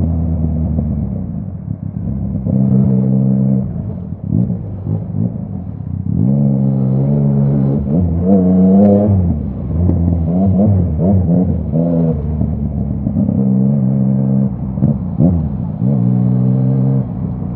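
Yamaha MT-09's crossplane three-cylinder engine through a full Akrapovic exhaust, revving up and down repeatedly under throttle, with steadier stretches between the rises and falls in pitch.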